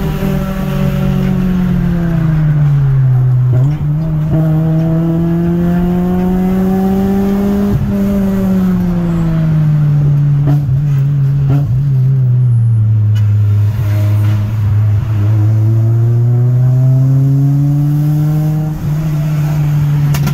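Four-cylinder car engine heard from inside the cabin, running hard with its pitch gliding slowly up and down as the car speeds up and slows down: it falls over the first few seconds, climbs to a peak about 8 seconds in, sinks low in the middle of the stretch, and climbs again near the end.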